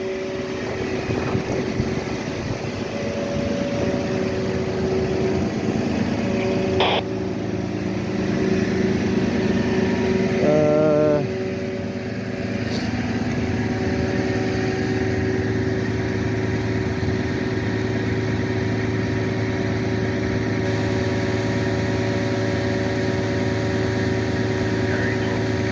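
A vehicle engine idling steadily. There is a single knock about seven seconds in, and a short warbling tone about ten seconds in.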